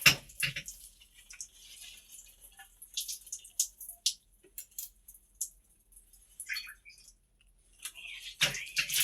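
Scattered light clicks and taps as wet hand-washed laundry is put on hangers. A rush of running water starts near the end.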